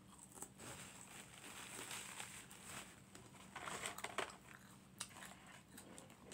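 Quiet chewing of McDonald's French fries, with soft rustling and small clicks as fingers dig through the cardboard fry carton.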